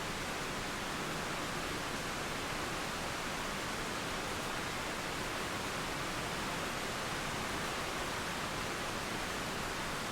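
Steady rain falling with river water flowing beneath it, heard as a constant, even hiss.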